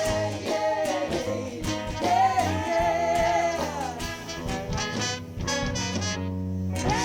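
Live band music from a soul band with drums, bass, guitar, keyboard and a horn section of saxophone, trombone and trumpet.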